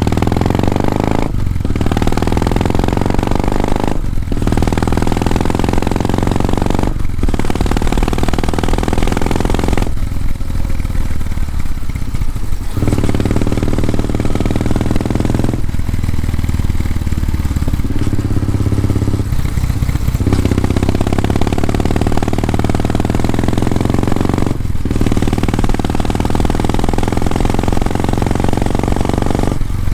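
Kawasaki W650 parallel-twin engine running through an r's gear Wyvern Classic muffler under way. The engine note breaks off briefly three times in the first seven seconds as the rider changes up, eases off twice for a few seconds, and breaks once more near the end.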